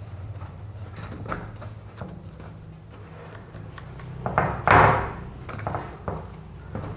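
Parts of a washing machine trolley's adjustable frame being handled and pushed into line: scattered clicks and knocks, with a louder rattling scrape about four and a half seconds in.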